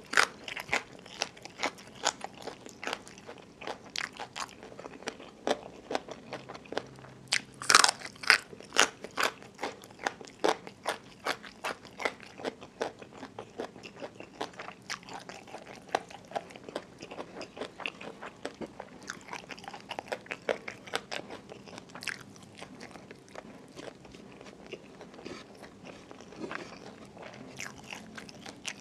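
Close-miked crunching and chewing of a mouthful of raw bitter gourd and rice mixed with crispy fried fluffy catfish chili paste, with many sharp crunches a second. The crunches are loudest about eight seconds in.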